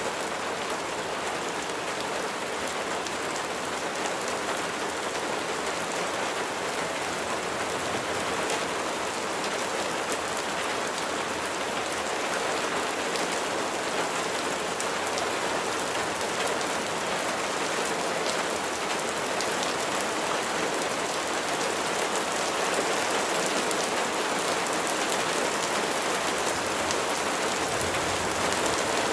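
Steady rain falling, an even hiss with fine patters of drops on a surface.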